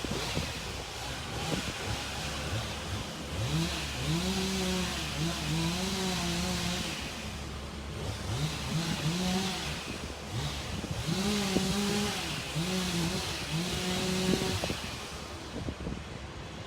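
An engine revving up and down repeatedly, about once a second, over a steady low engine hum, with hiss alongside the revs.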